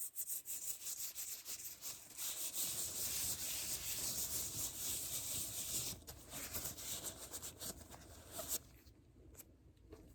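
Close-miked ASMR rubbing and scratching: dense, fast, hissy strokes that thin out to a few lighter ticks about eight and a half seconds in.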